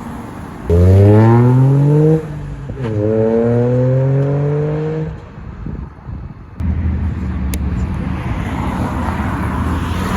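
A supercar accelerating hard away, its engine note climbing steeply, dropping briefly at a gear change about two seconds in, then climbing again until about five seconds in. After a short lull, another car's engine runs at a steady low note as it rolls past.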